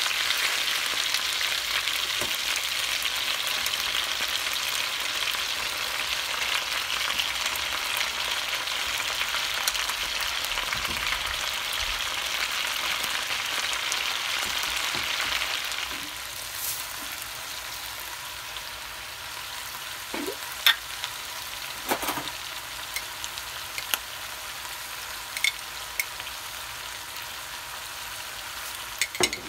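Chicken drumsticks sizzling in hot oil in a pot, a steady frying hiss that drops in level a little past halfway, after the chopped onions are added. In the second half a few sharp clinks of the stirring spoon against the pot.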